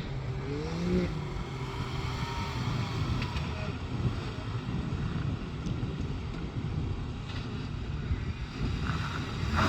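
Jeep Wrangler JK Unlimited Rubicon engine running at low revs as it crawls over boulders, with a short rise in revs in the first second. Wind rushes on the microphone.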